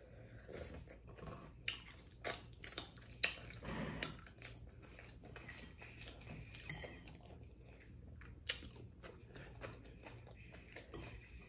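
Faint close-miked chewing of fried fish with coleslaw: scattered small wet clicks and crunches of the mouth, with now and then a light tick of a fork on the plate.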